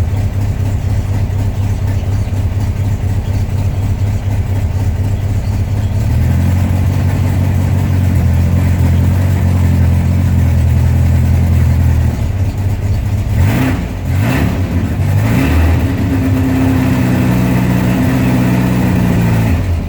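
1972 VW Beetle's air-cooled flat-four engine idling on its automatic choke during a cold start, still cold. The engine note changes about six seconds in, and two short sharp sounds come about fourteen seconds in.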